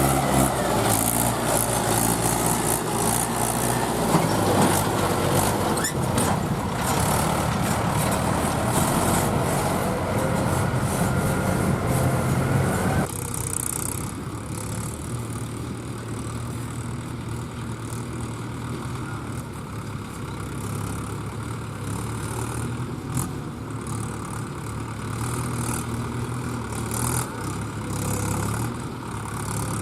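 Farm tractor's diesel engine running hard as it strains to haul an overloaded trolley stuck in mud. A little under halfway through, the sound changes abruptly and becomes somewhat quieter.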